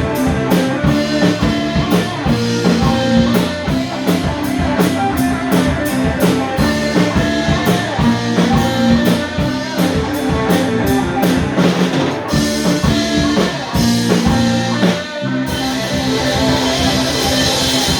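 Live rock band playing an instrumental passage with electric guitar, bass, keyboards and drum kit. The steady drumbeat thins out and stops about three-quarters of the way through, leaving held chords ringing.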